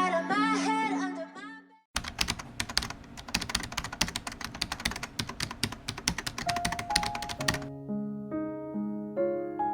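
Rapid, irregular clicking of computer-keyboard typing for about five and a half seconds. Before it, the tail of a sung pop song fades out, and near the end a gentle piano tune begins.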